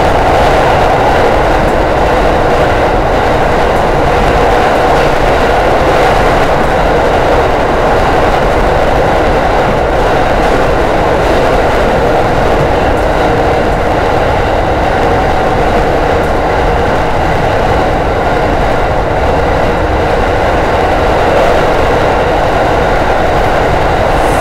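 Steady running noise of an Aoimori Railway electric train, heard from inside the rear car as it travels between stations: an even, unbroken hum and rush of wheels on rail at a constant level.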